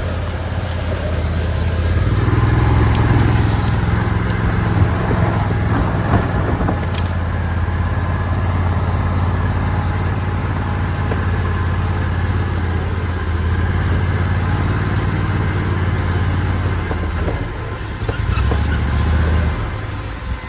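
Argo amphibious ATV engine running steadily. It revs up slightly a couple of seconds in and eases down near the end.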